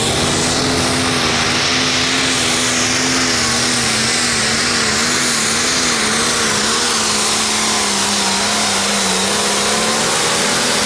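Turbocharged diesel pulling tractor running flat out under load on the pulling track, its engine note wavering up and down.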